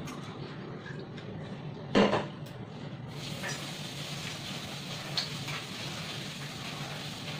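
Mukbang eating sounds: chewing a mouthful of raw cucumber and apple salad, with one loud sharp sound about two seconds in and a few lighter clicks later.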